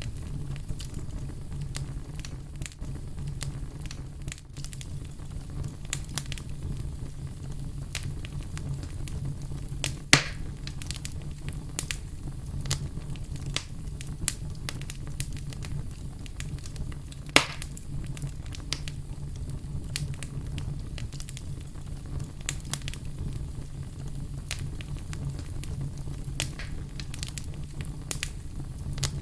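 Fire crackling, with frequent small irregular pops over a steady low rumble. Two louder pops stand out, about a third of the way through and a little past halfway.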